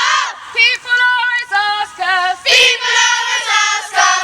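A group of children singing a song together, in held, clear notes broken by a couple of louder shouted or chanted bursts.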